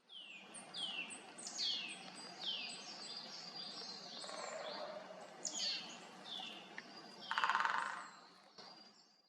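Wild forest birds calling: a run of short, sharp calls that slur downward in pitch, roughly one a second, with a brief buzzy rattle about seven seconds in, over faint steady background noise.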